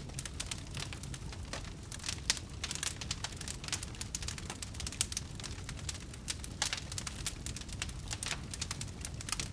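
Wood fire burning in a fireplace: a dense, irregular crackling with sharp pops, over a low steady rumble of the flames.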